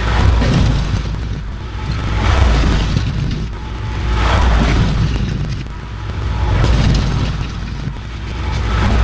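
A machine's engine running steadily, rising and falling in waves about every two seconds, with background music mixed in.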